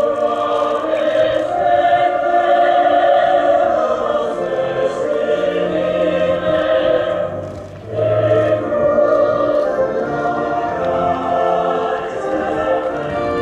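Choral music: a choir singing in long held notes, dipping briefly about eight seconds in.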